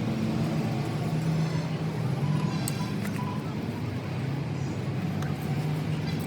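A motor vehicle engine running steadily, a low hum with faint road noise around it.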